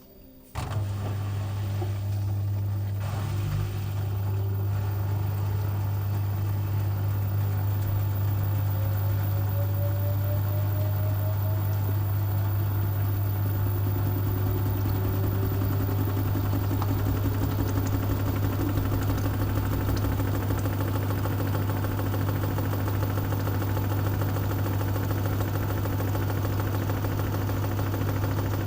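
LG washing machine with a load of wet towels starting up and running hard, typical of a spin cycle: a loud steady hum sets in suddenly about half a second in, while a fainter motor whine climbs in pitch over about ten seconds and then holds steady.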